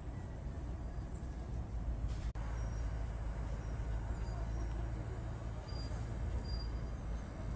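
Strong wind buffeting the microphone: a steady low rumble, broken by a brief dropout about two seconds in.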